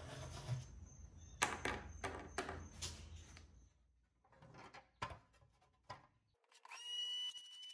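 Rusty pressed-steel toy truck being handled on a workbench: a string of sharp knocks and clattery thumps as it is moved and turned over. Near the end a rotary tool starts up and settles into a steady high whine.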